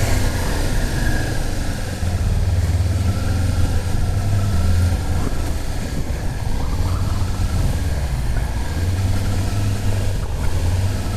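Motorcycle engine running at low speed, a steady low hum with small changes in revs.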